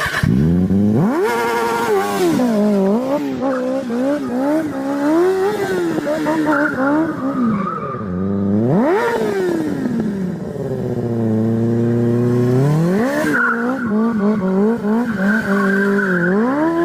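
Kawasaki Ninja sport bike engine revving hard: a sharp rise in revs about a second in and again around eight seconds in, with the revs rising and dropping between, settling to a low steady note around eleven seconds before climbing again.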